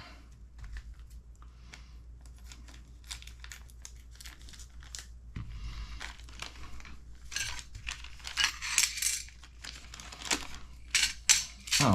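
Plastic kit parts bag crinkling and tearing open, with small hard parts clicking and clinking as they are handled.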